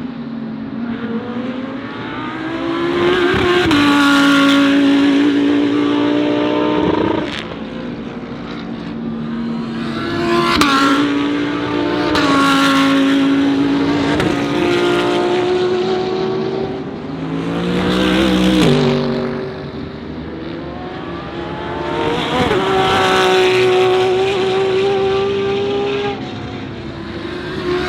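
DTM GT3 race cars' engines going by at racing speed in succession, the sound swelling and fading several times as cars pass. Engine pitch climbs and then drops sharply at gear changes.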